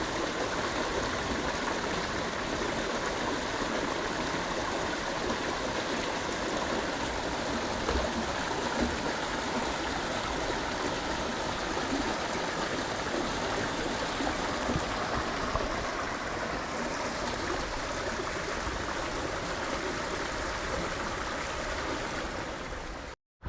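Steady rush of flowing water, a stream or channel running, which cuts off suddenly near the end.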